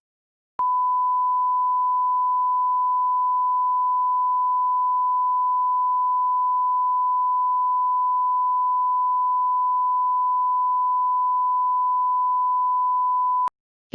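Steady 1 kHz sine-wave line-up tone at −18 dBFS, the reference level for aligning audio gear, starting about half a second in and cutting off abruptly just before the end.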